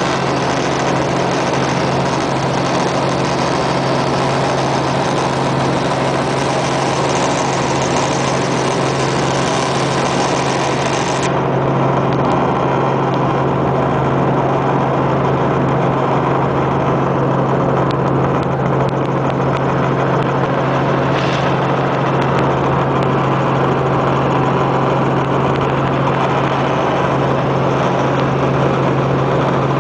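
Helicopter in flight, a steady loud drone with a constant low hum. The high hiss drops away about eleven seconds in.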